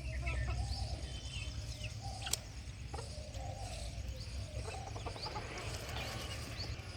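Farm poultry clucking and calling, with many short high chirps mixed in, over a steady low rumble; a single sharp click about two seconds in.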